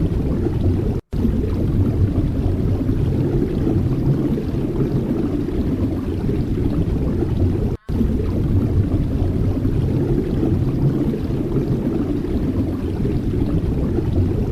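Strong wind buffeting the microphone: a steady, loud low rumble that drops out briefly twice, about a second in and again near eight seconds.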